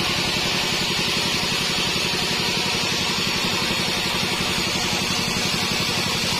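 Sawmill bandsaw machinery running steadily: a fast, even low throb under a constant hiss.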